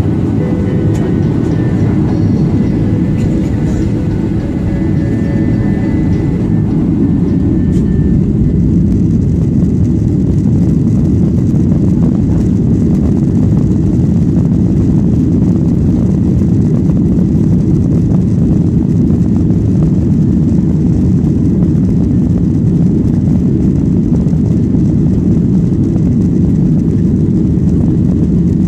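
Airplane on the runway during takeoff: a loud, steady low rumble of engines and rolling that builds a little over the first several seconds, then holds.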